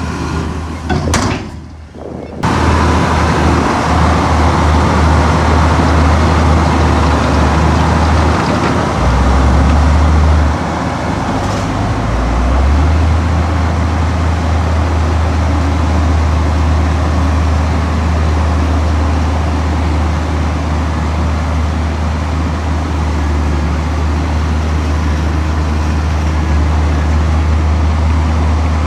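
Heavy diesel earthmoving machinery running steadily at a low, deep rumble, with a brief drop near the start and a shift in the engine note about ten seconds in.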